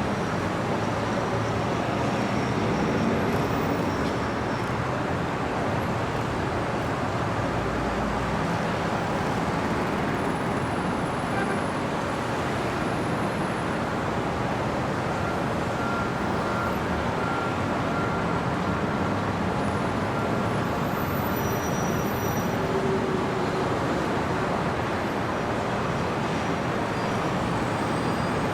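Steady city road traffic: a continuous wash of passing cars and heavier vehicles, with faint brief high squeals here and there.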